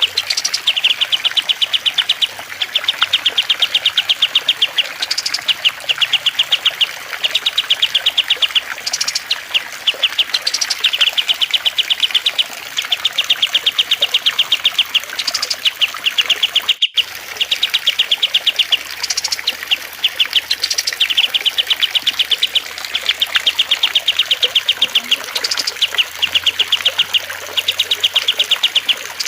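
Songbird recording used for training cage birds: a small bird repeating rapid, rattling trills about a second long, one after another, with occasional higher chirps, over a steady hiss of trickling water. The sound cuts out for a moment about two-thirds of the way through.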